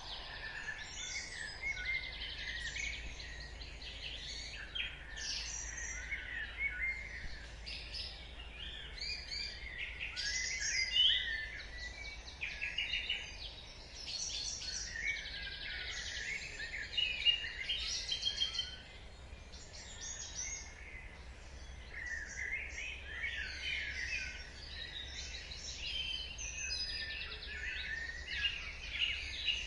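Dawn chorus: many birds singing at once, overlapping chirps, trills and whistles, with a faint low steady hum beneath.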